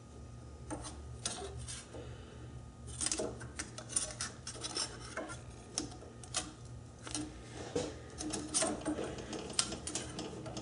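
Irregular metallic clinks and taps of steel tools and stock being handled and adjusted at a metal lathe, over a steady low hum.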